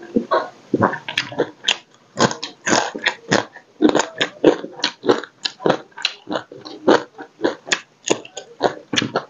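Close-miked mouth sounds of a man eating fried crab and rice by hand: a quick, steady run of crunchy, wet chewing and biting noises, about two or three a second.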